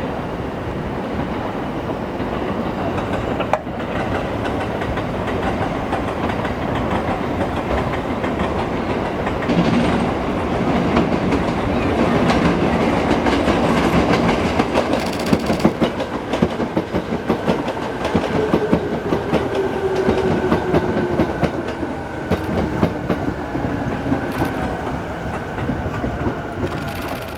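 E217 series electric train pulling into the station. Its wheels clack rapidly over rail joints and points, getting louder about ten seconds in, and a whine falls slowly in pitch as the train brakes.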